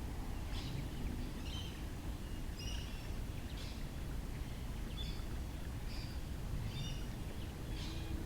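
Birds chirping in short high calls every second or so, over a low steady rumble.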